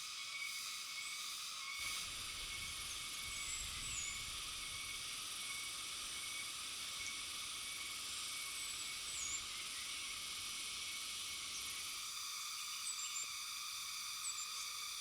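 Tropical forest ambience: a steady hiss of insects, with a few faint, short, high-pitched bird calls. The background changes abruptly twice, about two seconds in and near the end.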